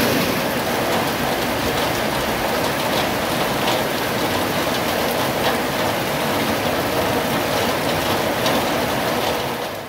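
Steady rain falling, an even hiss with a few separate drop ticks standing out now and then.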